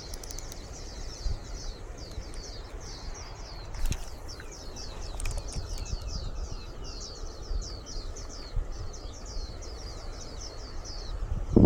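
A bird singing a long, fast, unbroken series of high chirps, about four or five a second, over a low rumble of wind on the microphone.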